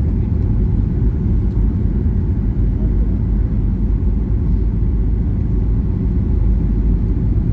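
Airplane cabin noise in flight: a steady low rumble of engines and airflow heard from inside the cabin.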